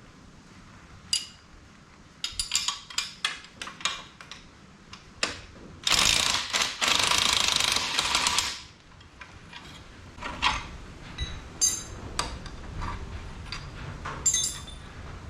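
Hand tools working on metal: scattered clicks and clinks with ratcheting. About six seconds in comes a harsh, continuous noise lasting about two and a half seconds, the loudest sound here.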